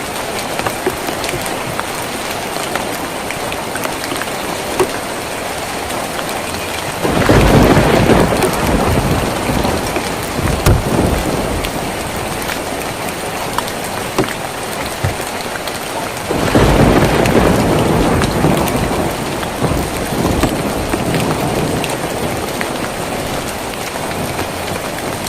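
Steady rain drumming on a tin roof, with scattered sharper drip ticks. Thunder rolls twice, about seven seconds in and again about sixteen seconds in, each swelling and fading over a few seconds.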